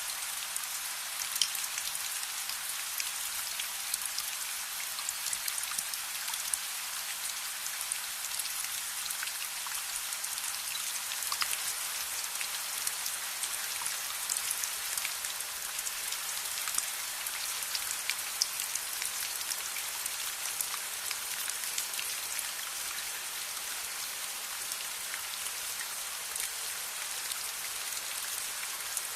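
Steady rain: a dense, even hiss of falling rain with many sharp ticks scattered through it.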